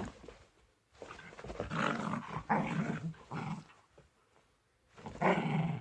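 Senior dog growling and snarling in a play attack on a pair of jeans: a long run of rasping growls from about a second in, a pause, then another growl near the end.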